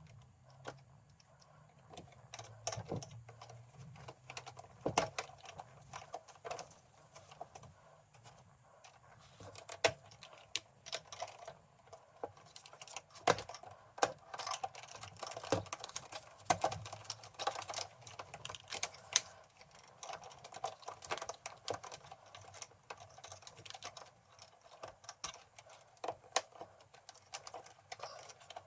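A long run of irregular light clicks and taps, like parts and hand tools being handled during work on an air conditioner.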